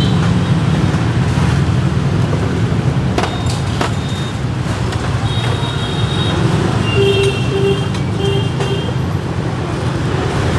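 Steady street traffic noise, mostly motorbikes and cars passing, with a few sharp knocks and a short run of beeps in the second half.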